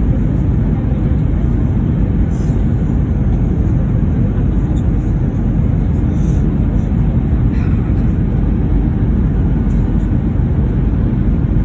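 Steady, loud low rumble of engine and airflow noise inside the cabin of an Airbus A321 descending to land.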